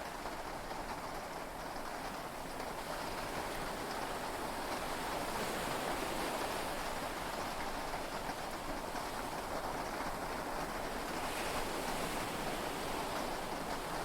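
Heavy rain and sea waves heard from inside a yacht cabin: a steady, even wash of water noise that swells slightly a few seconds in.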